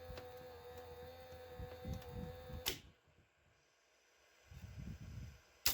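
Panasonic PV-1200 VCR tape mechanism running with a steady whine and low rumbling, then a sharp click about two and a half seconds in, after which it goes quiet; a brief low rumble and another sharp click follow near the end. The mechanism is failing to drive the tape, which the owner blames on a worn drive belt.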